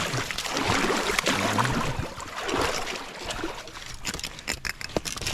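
River water rushing and splashing, with scattered clicks and knocks that come thicker near the end.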